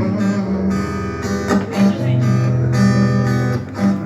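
Background music: acoustic guitar strummed in a steady rhythm, with sustained low notes underneath.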